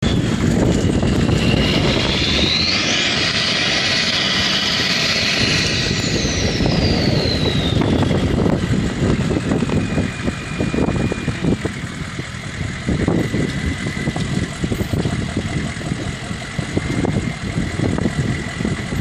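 Off-road vehicle engine revving hard under load during a tow-strap recovery of a vehicle stuck in sand. A high whine climbs sharply in pitch over a few seconds, falls back, then holds steady.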